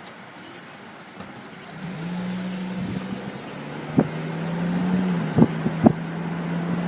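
An engine starts a steady low hum about two seconds in and keeps running, its pitch stepping slightly. Three sharp knocks come near the middle and later on.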